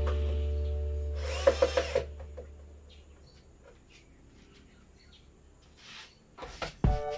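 A low motor hum fading out over the first two seconds, with a short hiss of spray about a second and a half in. Then faint ticks in near quiet, with music coming back near the end.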